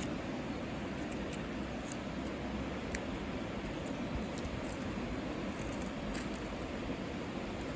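Steady outdoor rushing noise with scattered faint crackles and ticks.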